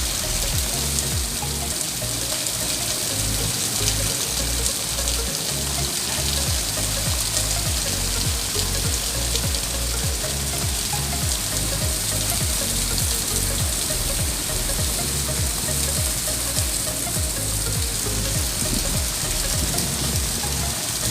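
Steady rain falling, a continuous even hiss, with background music and a deep, rhythmic bass line underneath.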